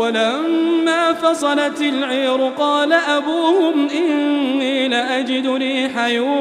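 A man's voice chanting Quran recitation in melodic tajweed style, drawing out long ornamented notes whose pitch wavers up and down, with a few brief pauses for breath.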